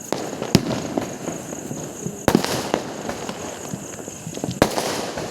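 Firecrackers going off: three loud bangs about two seconds apart, with smaller pops and crackling between them.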